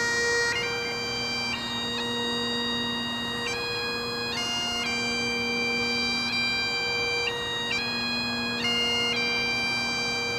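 Bagpipes playing a slow melody over their steady drones, each chanter note held for one to several seconds.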